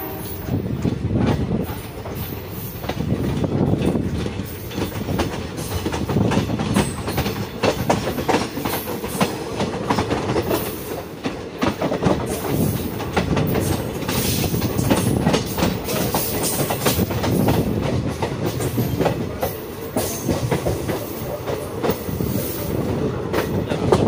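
Passenger train running at speed, heard from aboard a coach: a steady rumble with the wheels clattering over rail joints in many irregular clicks.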